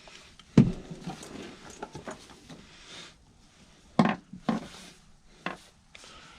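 Knocks and clatter of hand tools and parts being handled. A sharp knock comes about half a second in, followed by a run of lighter clicks; two more sharp knocks come about four seconds in, and a last one follows about a second later.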